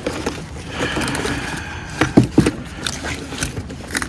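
Rustling and scraping of packaging as boxed parts are handled, with scattered knocks and a few louder knocks a little after two seconds in.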